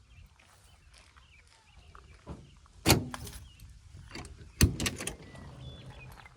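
Camper van door being worked open: two loud clunks of the latch and door, about a second and a half apart, each followed by a few lighter clicks.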